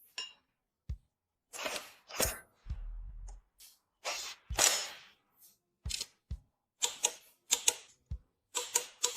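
A run of sharp, uneven clicks and knocks, about a dozen, like metal tools and parts being set down and worked on a motorcycle, with a short low hum about three seconds in.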